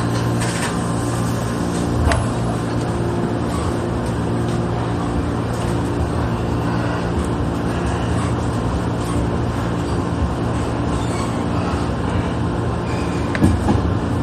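Sanyo Electric Railway local commuter train running between stations, a steady rumble of wheels and running gear with a low, even hum from the motors.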